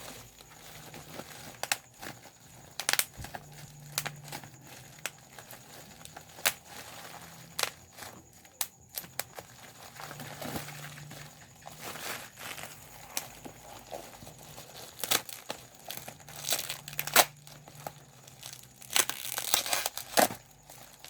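Plastic bubble wrap being popped by hand: irregular sharp pops, one after another, over the crinkling of the plastic sheet. Near the end there is a denser run of crinkling and pops.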